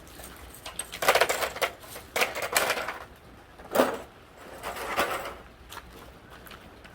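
Hand tools and metal parts clicking and clattering in several short bursts, the sharpest about four seconds in.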